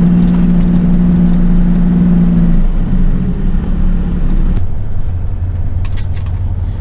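Semi truck's diesel engine heard from inside the cab, running steadily and then dropping in pitch in two steps, about a third of the way in and again past the middle, as the truck slows toward a stop.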